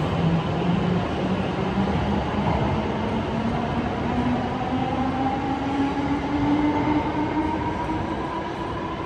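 E7 series shinkansen's electric traction motors whining, the pitch climbing steadily over a running rumble as the train gathers speed.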